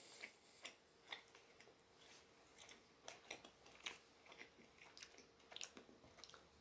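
Faint, irregular chewing: soft mouth clicks and squelches of a person chewing a spicy snack salami stick, scattered every half second or so.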